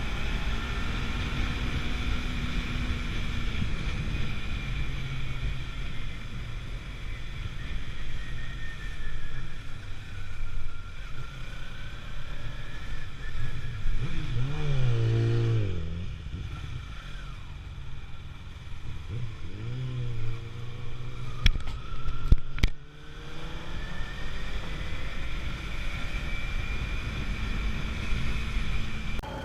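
Motorcycle riding along with the engine running over steady wind and road noise. Twice past the middle the revs rise and fall, and two sharp clicks come a little later.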